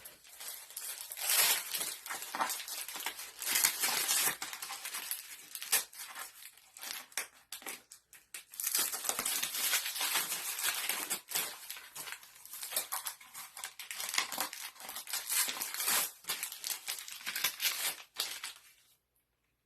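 Wrapping paper crinkling, rustling and tearing as a gift is unwrapped, in irregular handfuls; it stops abruptly near the end.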